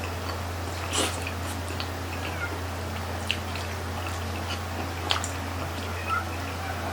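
People chewing grilled chicken intestine, with scattered wet mouth clicks and smacks and a few faint short squeaks, over a steady low electrical hum.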